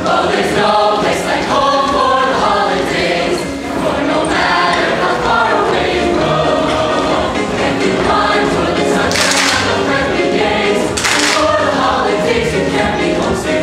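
A choir singing with musical accompaniment, with two short bright accents a little past the middle.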